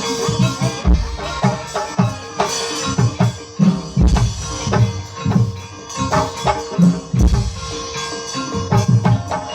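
Live gamelan music for a kuda kepang (ebeg) dance: hand-drum strokes beating out a busy, uneven rhythm over ringing metal percussion and a held tone.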